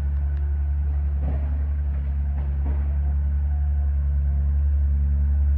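A steady, loud low mechanical drone, engine- or motor-like, with a few faint knocks about a second and two and a half seconds in.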